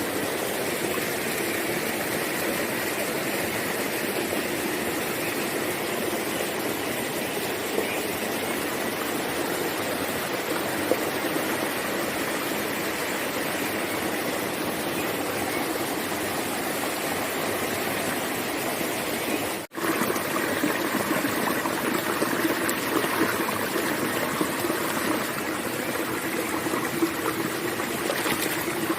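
Steady rushing of running water. It breaks off for an instant about two-thirds of the way through, then carries on a little louder.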